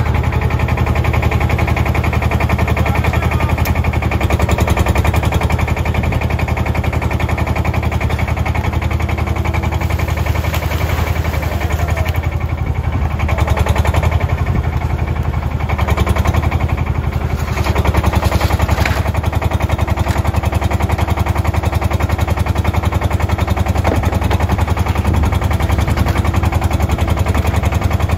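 Large diesel engine running steadily, with a fast, even chugging throughout.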